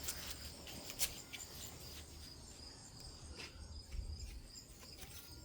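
Faint steady insect chirping, with a few soft clicks, the clearest about a second in.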